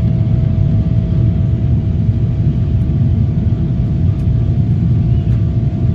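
Cabin noise of a Boeing 777 in its climb after takeoff: its GE90 engines at climb power and the rushing air make a loud, steady low rumble, with one constant hum running through it.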